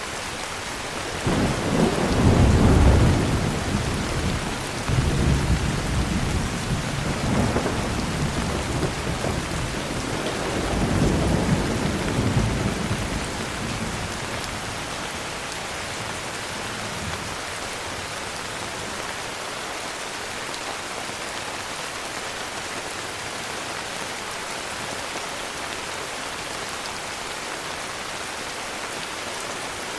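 Heavy rain falling steadily, with a long roll of thunder that swells several times, loudest about two seconds in, and fades out about halfway through.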